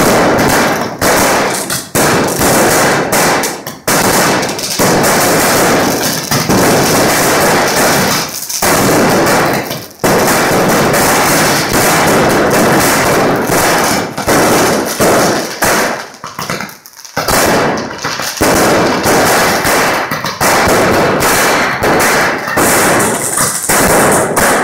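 Fireworks going off in a rapid, almost continuous crackle of loud bangs, with a few short lulls, the clearest about ten seconds in and again about seventeen seconds in.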